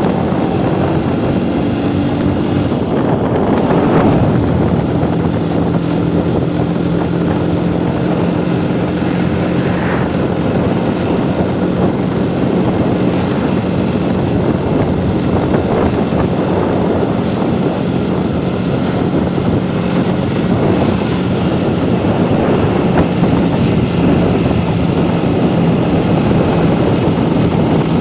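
Aprilia Tuono 125's single-cylinder four-stroke engine running at a steady pace under way, with heavy wind noise over it. The engine note steps down about four seconds in and then holds steady.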